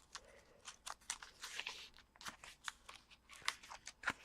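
Pages of a small handmade junk journal being turned and handled: faint, irregular paper rustles and light clicks.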